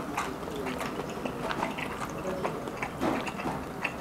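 Eating sounds: chewing with scattered light clicks of tableware.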